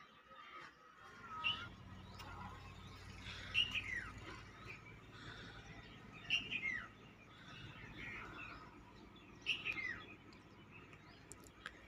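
A bird calling: a sharp chirp that falls in pitch, repeated about every three seconds with softer chirps between, over a faint low steady hum that starts about a second in.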